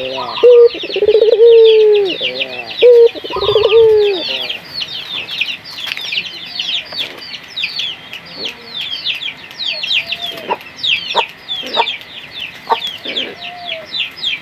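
Puter dove calling: several loud, rolling coos in the first four seconds, then only faint short calls. A dense, rapid high chirping from other birds or insects runs underneath.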